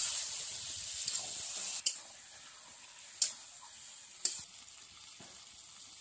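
Chicken pieces frying and sizzling in a metal kadai as a metal spatula stirs them. The sizzle is loud for about two seconds, then drops to a softer hiss, and the spatula strikes the pan sharply three times.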